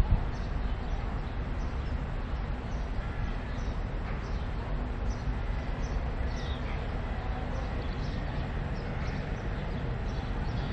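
Birds chirping again and again in short falling notes over a steady low rumble, with a single knock right at the start.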